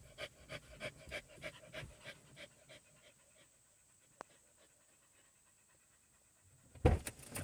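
A dog panting fast and hard, about four or five breaths a second, as it cools off after a walk in the heat. The panting fades out about three seconds in, and a single loud thump comes near the end.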